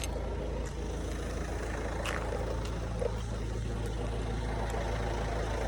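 Peugeot car engine idling steadily, a low even hum.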